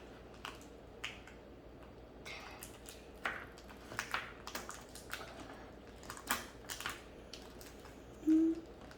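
Small plastic toy parts and packaging being handled: scattered light clicks, taps and crinkles, irregular and close to the microphone, with a short low hum near the end.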